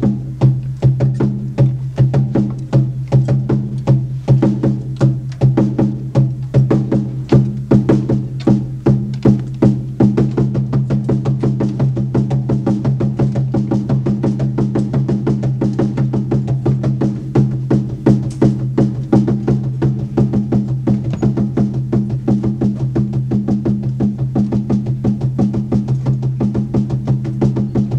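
Hand-carved wooden hand drum, the Ancient Infinity lightning wood drum, played in a steady, continuous rhythm with a deep ringing tone. The strokes are strongly accented at first; about ten seconds in they become faster and more even.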